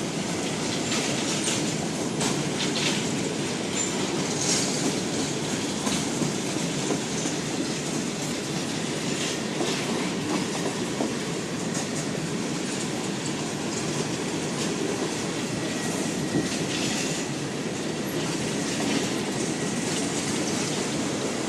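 Freight train cars rolling past: a steady rumble of steel wheels on rail, with sharp clicks of wheels over the joints and faint high wheel squeals.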